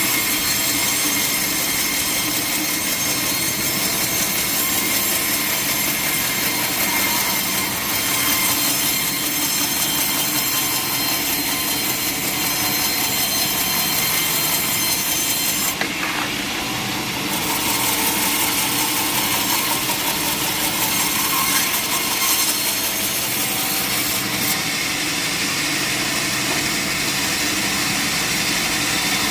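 Sawmill saw cutting steadily through a log, a continuous rasping saw noise with a high whine.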